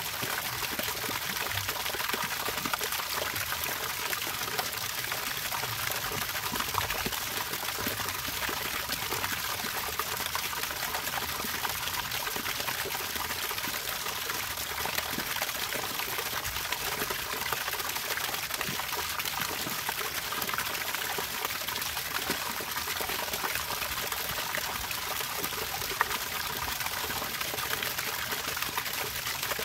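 Running water trickling and pouring steadily, with a light splashing.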